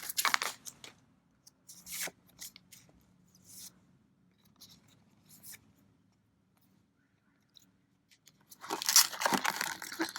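Trading cards and their packaging handled with scattered short rustles and flicks, then, about eight and a half seconds in, a loud stretch of crinkling and tearing from a foil booster-pack wrapper.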